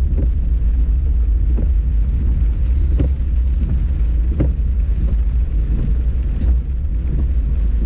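Car moving slowly: a steady low rumble of engine and road, with a few light knocks.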